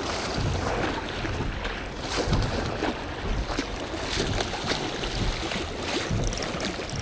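Wind buffeting the microphone as a steady rushing noise, with irregular knocks and rustles scattered through it.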